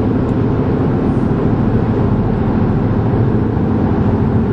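Car driving at steady speed: a continuous low rumble of road and engine noise with a faint steady hum.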